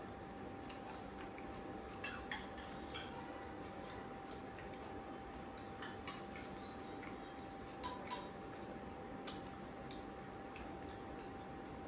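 Scattered small clicks and clinks of people eating at a table, with cutlery and hands against plates, a few a little louder than the rest, over a faint steady hum.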